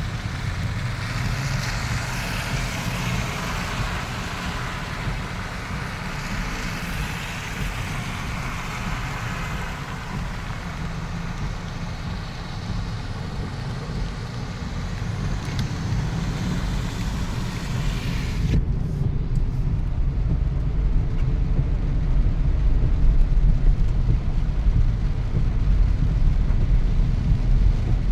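Steady rain hiss over a heavy low rumble. About two-thirds of the way through, the hiss cuts out abruptly and the low rumble carries on, somewhat louder.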